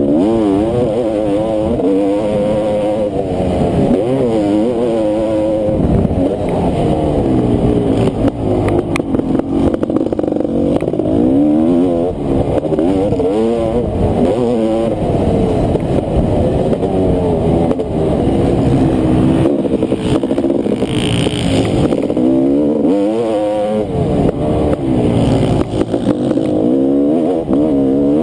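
Honda CR500 two-stroke motocross bike engine racing, its pitch sweeping up and dropping off again and again as the throttle is worked.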